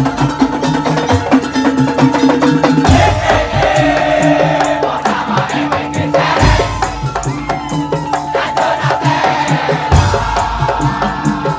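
Madurese tong-tong music: an ensemble of wooden slit drums knocking a fast, dense rhythm over a melodic line, with a heavy low drum hit about every three and a half seconds, three times.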